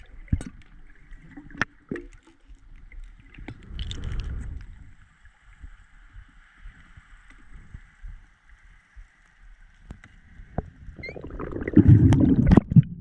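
Underwater sound with scattered sharp clicks and a faint steady hiss. A louder gurgling rush of water and bubbles rises near the end.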